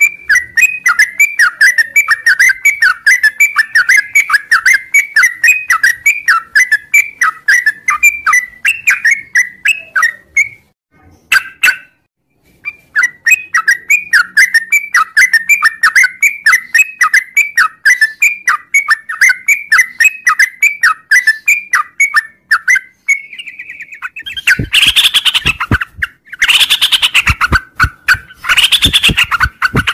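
Yellow-vented bulbul (trucukan) singing its long, rapid chattering song, a quick run of repeated chirping notes. It pauses briefly about a third of the way in, then resumes. Near the end it breaks into three louder, harsher bursts.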